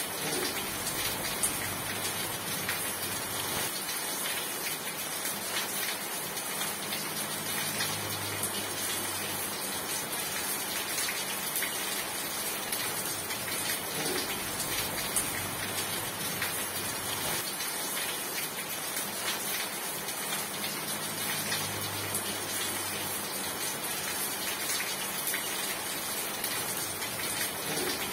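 Steady rain: a dense, even hiss of rainfall with scattered drop ticks, and a faint low hum that swells and fades twice.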